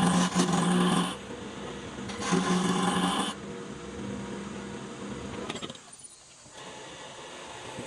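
Power tool working wood: a loud motor whine for about the first second and again from about two to three seconds in, with quieter noisy running between and after.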